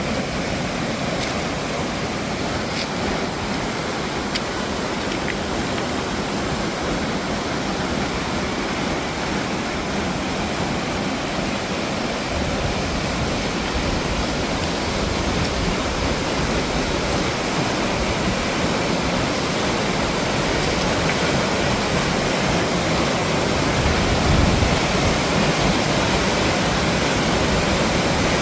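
Whitmore Falls waterfall rushing in a steady roar of falling water, growing gradually louder.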